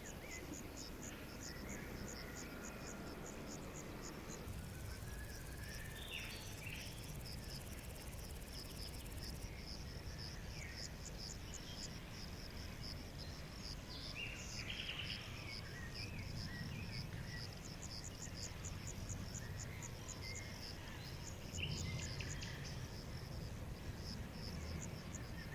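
A nighttime chorus of crickets or other insects chirping in rapid, evenly spaced pulses, with occasional short bird chirps and a low background rumble.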